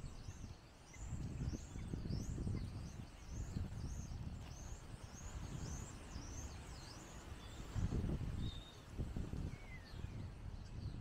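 A small bird calling a rapid run of repeated high chirps, about two a second, that stops about two-thirds of the way through. Under it, gusty wind rumbles on the microphone.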